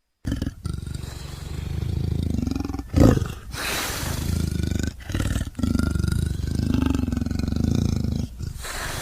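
Sri Lankan leopard growling and roaring in several long stretches split by brief breaks, starting suddenly, with a loud, short peak about three seconds in.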